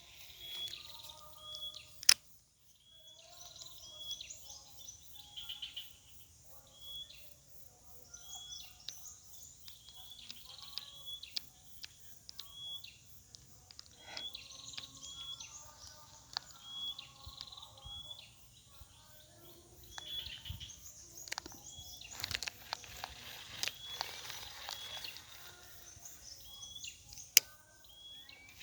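Birds chirping over and over, short high calls about once a second mixed with lower notes. Two sharp clicks stand out, one early and one near the end, and a brief rushing noise comes about two-thirds of the way through.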